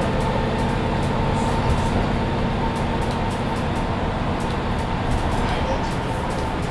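Mercedes-Benz Citaro C2 hybrid city bus driving, heard inside the cabin: a steady engine drone and road noise, with a thin constant whine and light scattered rattles.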